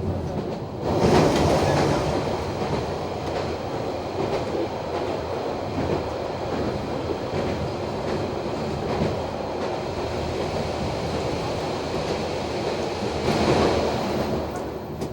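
Noto Railway NT100 diesel railcar running along the line: steady wheel-and-rail running noise with some clickety-clack, swelling louder about a second in and again near the end.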